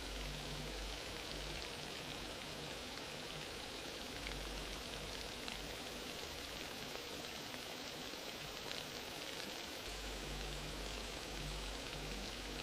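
Wood fire crackling steadily, a continuous hiss dotted with small snaps and a couple of sharper pops about four and five and a half seconds in.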